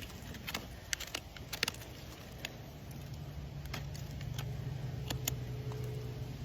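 Hoof-trimming tools working on a horse's hoof: irregular sharp clicks and snips of steel on hoof horn, over a low steady hum that grows louder about two and a half seconds in.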